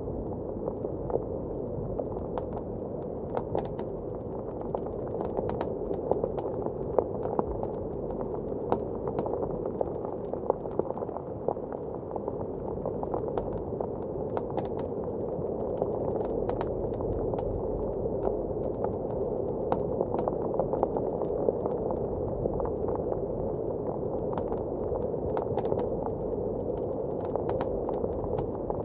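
Wood fire crackling, with frequent irregular sharp pops, over a steady muffled roar of blizzard wind.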